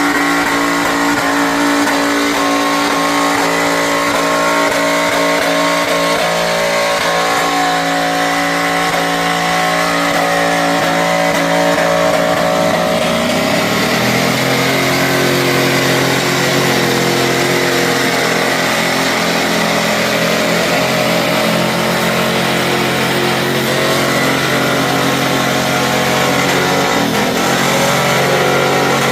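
Mud truck engine held at high revs, running loud and steady; its pitch drops and then climbs again about halfway through.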